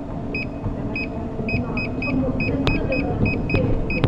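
Treadmill console beeping: a quick irregular run of about a dozen short, high, identical button beeps, over a steady low rumble.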